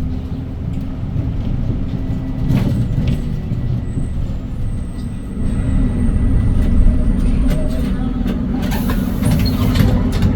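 Hyundai Green City city bus with its C6GB compressed-natural-gas engine running under way, heard inside the cabin as a steady low engine and road rumble that grows louder about halfway through. A short hiss of air comes near the end.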